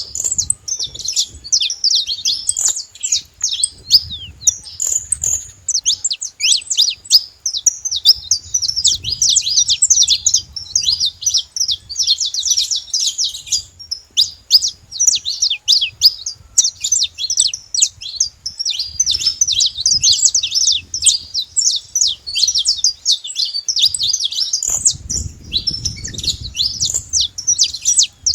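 Saffron finches singing: a dense, almost unbroken stream of quick high chirps and trills with only brief pauses. A low rumble comes and goes underneath, strongest near the end.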